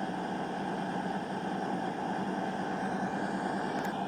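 Two coupled Class 220 Voyager diesel multiple units running steadily with their underfloor diesel engines at idle: an even, unchanging hum.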